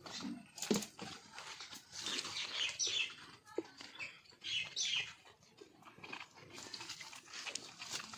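Short high bird chirps, a couple of quick falling calls, over scattered soft knocks and rustling.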